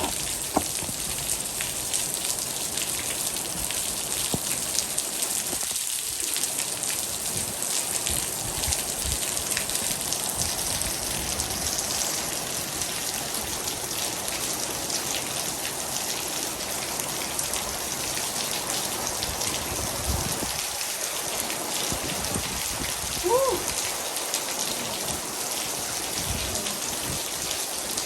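Heavy rain falling steadily, a constant hiss dense with the patter of individual drops. About 23 seconds in, a brief pitched sound with a quick bend in pitch rises over the rain.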